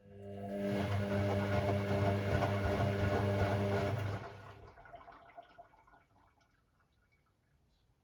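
Hoover Sportswear 1300 AI130 washing machine running: a steady hum with water noise that starts suddenly, holds for about four seconds, then fades away over a couple of seconds, leaving faint ticks.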